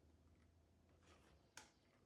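Near silence: room tone with one faint, short click near the end.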